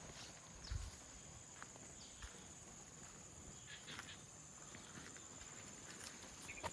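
A walker's footsteps, a few soft steps and scuffs, over a steady high-pitched insect drone.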